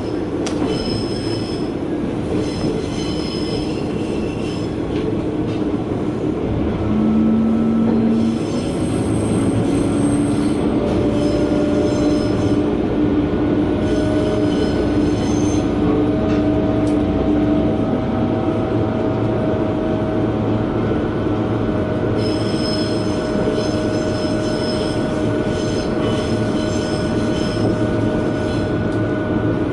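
Diesel railcar heard from inside, its engine droning steadily over the rumble of the wheels on the rails. The engine note steps up about a quarter of the way in, and the wheels squeal shrilly in several spells as the car takes curves.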